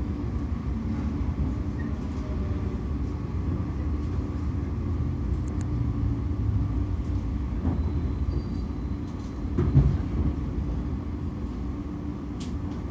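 JR 115-series electric train running, heard from inside the carriage: a steady low rumble with a faint steady hum, scattered light clicks, and one brief louder knock near the end.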